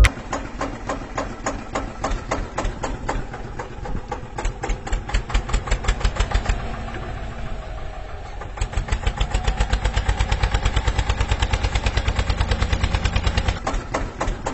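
Small engine running steadily with a rapid, even chugging beat of several strokes a second, growing louder about two-thirds of the way in.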